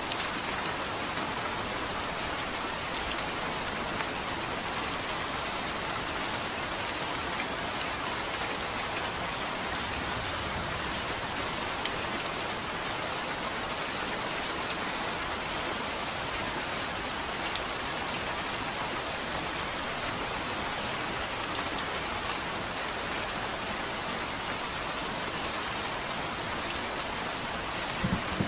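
Steady rain falling on a surface, an even hiss with sharp ticks of individual drops scattered through it. There is a short, faint low rumble about ten seconds in, and a brief low thump near the end.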